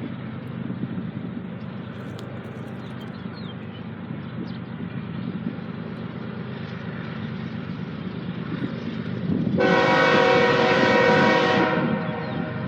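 Diesel locomotive horn sounding one long blast of about two seconds, about ten seconds in, over a steady low rumble.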